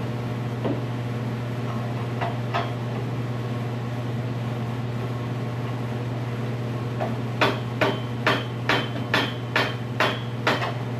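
A hammer striking metal, a run of about eight sharp ringing blows at about two a second, starting about seven seconds in, after a few lighter knocks earlier; the work is on a stuck Model T exhaust manifold nut that will not come loose. A steady low hum runs underneath.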